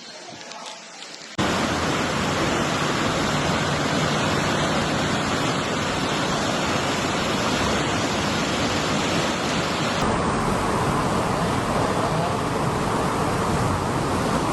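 Loud, steady rush of floodwater, starting abruptly about a second and a half in.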